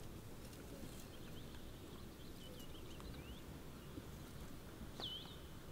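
Faint chirping of small songbirds over a quiet woodland background: a scatter of short high notes, then a clearer call that slides down and levels off near the end.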